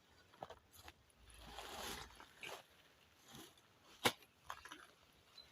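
Faint scuffing and rustling of someone moving about on a dirt slope, with a swell of rustling between one and two seconds in and one sharp knock about four seconds in.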